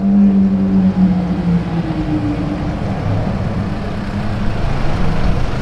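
Car engine running with a steady pitched note that slides down about a second and a half in, giving way to a broad rumble of traffic and road noise.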